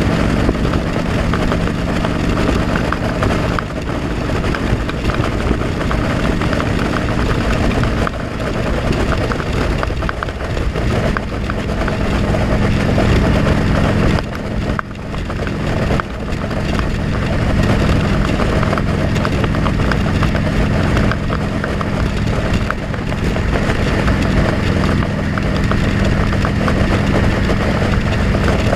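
Motorcycle engine running steadily under a constant rush of noise, as heard from a helmet-mounted camera. The engine note briefly dips about ten and again about fifteen seconds in.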